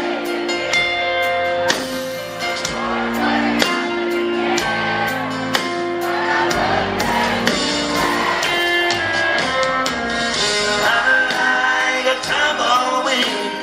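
Live country band playing with singing over it, in a large hall.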